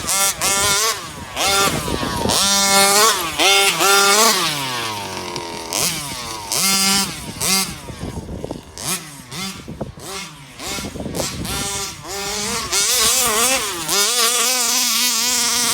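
34cc Rovan two-stroke engine in an RC Baja buggy being driven hard, revving up in short throttle bursts and dropping back again and again.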